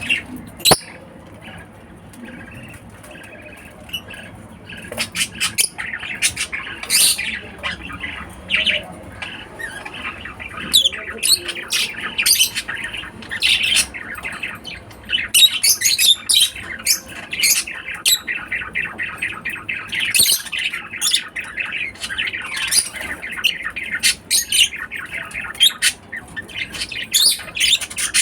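Lovebirds chattering and squawking in rapid, high-pitched calls that grow dense about five seconds in and keep up from then on. There is a sharp click just after the start.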